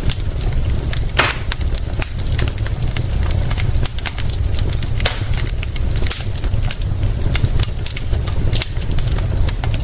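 Wood fire crackling, with many irregular sharp snaps and pops over a steady low rumble and hiss.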